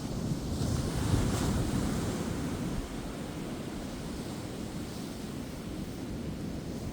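Ocean waves breaking on a beach: a wave swells and crashes about a second in, then settles into a steady wash of surf, with wind buffeting the microphone.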